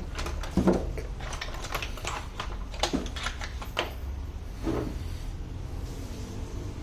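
Irregular light clicks and taps of small tools and parts being handled, with a few slightly heavier knocks among them, over a steady low hum.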